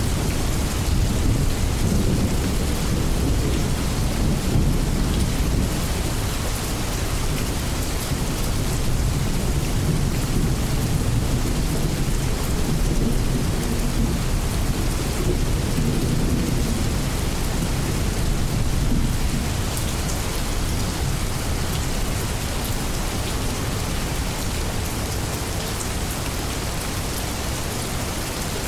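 Steady heavy rain with a low rumble of thunder rolling under it. The rumble eases off about two-thirds of the way in while the rain keeps up.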